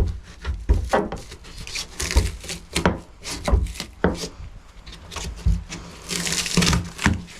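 Irregular knocks, clicks and scraping as a fridge/freezer is stripped by hand, its panels and wiring handled and pulled at. A longer scrape or rustle comes about six seconds in.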